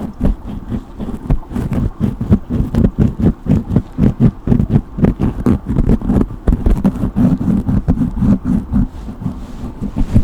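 Hairbrush strokes through hair close to the microphone, quick and uneven, several strokes a second.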